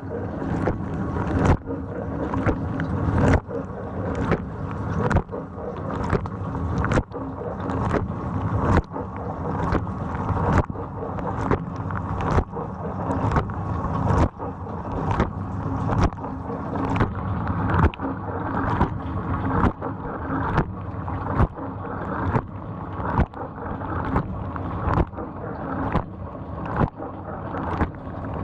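GE GDT655SSJ0SS dishwasher running a wash cycle: the wash pump hums steadily under sloshing, spraying water, with a rhythmic swish a little faster than once a second. The lower spray arm is not spinning, a fault traced to a diverter valve in the arm's nozzle gummed up with sticky buildup.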